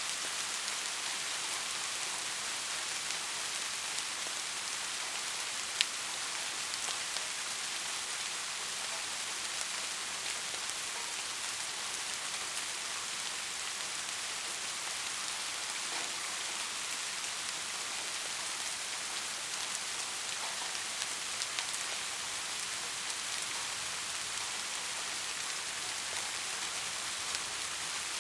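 Heavy rain falling steadily: a dense, even hiss with scattered louder drop hits, including one sharp tick about six seconds in.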